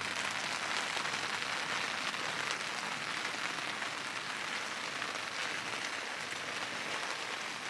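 Steady rain falling: an even hiss with fine, faint ticks of drops.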